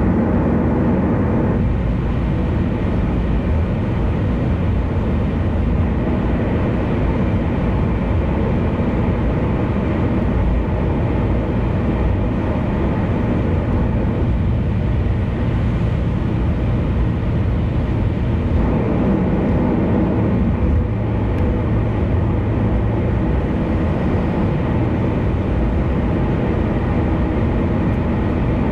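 Car driving at speed on an expressway: steady road noise from the tyres with a low engine hum.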